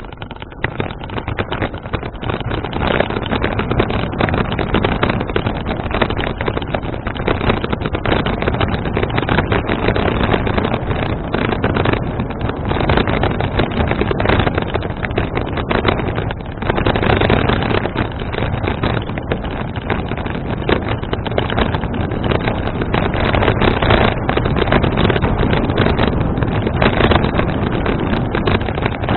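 Wind buffeting an action camera's microphone while riding a bicycle, a loud rushing noise that builds over the first few seconds and stays up.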